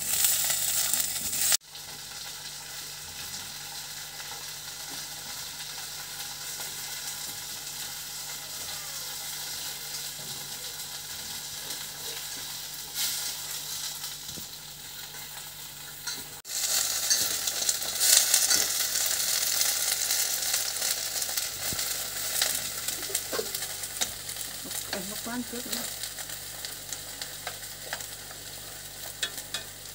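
Green vegetables sizzling as they fry in a steel pot over a gas burner, stirred now and then with a few small clinks. The hiss drops abruptly about one and a half seconds in and is louder again from about sixteen seconds on.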